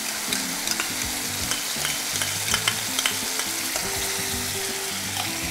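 Chopped garlic and sauces sizzling in hot oil in a nonstick wok as chilli sauce is squeezed in, with a steady frying hiss and a few light clicks of a spoon stirring in the pan.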